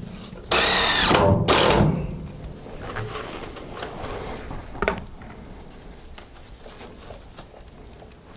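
Cordless drill driving screws into lumber: two short bursts, the first about a second long and the second shorter, then lighter knocks and handling of the wood.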